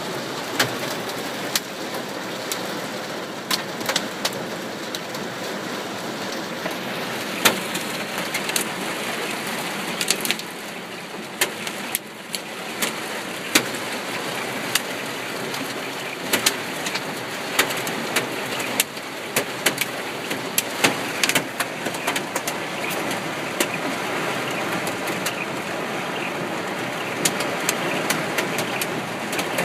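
Hail and rain drumming on a car, heard from inside it: a steady dense patter broken by frequent sharp, irregular clicks of hailstones striking the body and glass.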